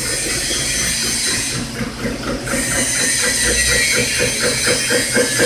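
CNC milling machine cutting a cast-iron pillow block: a steady, loud hiss of machining noise. About halfway through, a regular pulsing comes in, about four to five beats a second.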